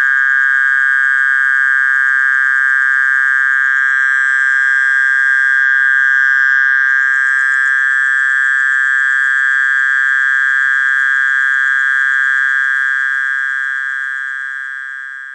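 Mole cricket calling: one unbroken, high buzzing trill that fades out over the last few seconds.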